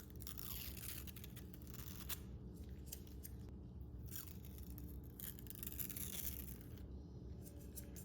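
Two long scraping strokes of hand work on a part, with a few light clicks, over a steady low hum.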